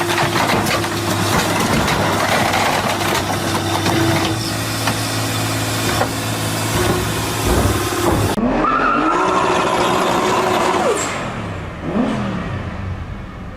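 Car engine running loudly, then, after a cut a little over eight seconds in, an engine revving with its pitch rising and falling.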